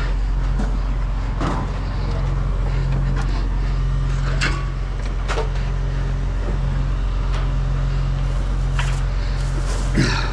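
A vehicle engine running steadily with a low hum, with a few light knocks over it.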